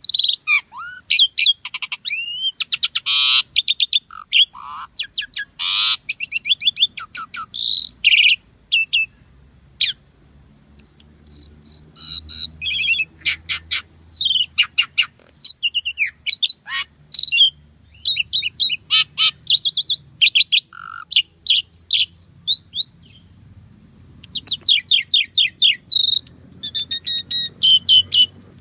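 Asian pied myna (jalak suren) singing a busy, varied song of short whistles, sliding notes and fast rattling chatter, with hardly a pause.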